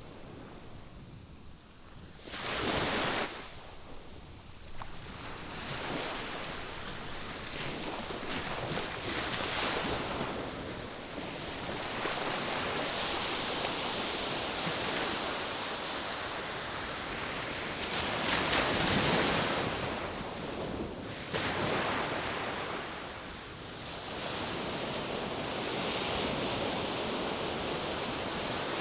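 Ocean surf washing on a beach: a steady rush of breaking waves that swells louder now and then, most strongly about two seconds in and again around nineteen to twenty-one seconds.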